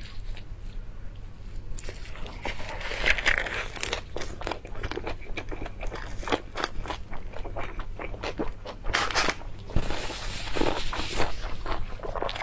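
Crunchy bites and chewing of a lettuce leaf wrapped around braised pork belly, picked up close by a clip-on microphone. The crunching starts about two seconds in and goes on as quick, irregular crisp clicks.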